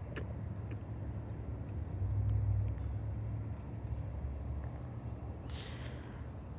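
A low, steady motor-vehicle engine rumble that swells a little about two seconds in, with a short hiss near the end.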